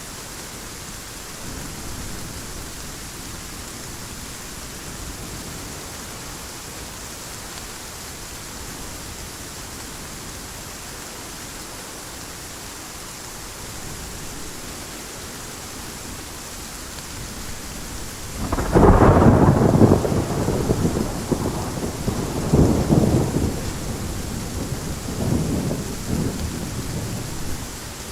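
Steady heavy rain hissing, then about two-thirds of the way in a loud clap of thunder breaks in and rolls on as a low rumble that swells twice more before fading.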